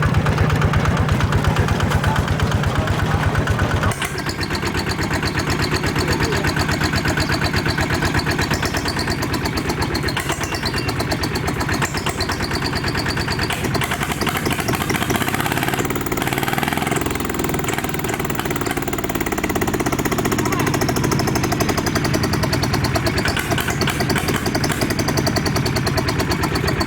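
Ride-on mini tractor's engine running steadily with a fast, even knocking beat; its low note drops away about four seconds in as the engine speed changes.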